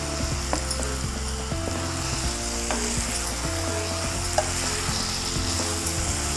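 Chicken pieces sizzling in hot oil with fried onions in a nonstick pan as they are stirred with a plastic spatula. There are light scrapes and taps of the spatula, and one sharper tap about four seconds in.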